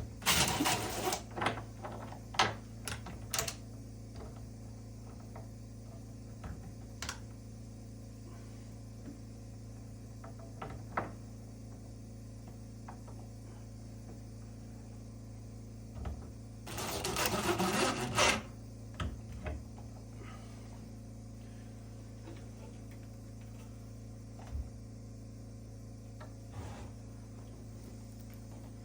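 Woodworking tool noise: two short bursts, one right at the start and one about a second and a half long near the middle, with scattered knocks and clicks in between, over a steady low hum.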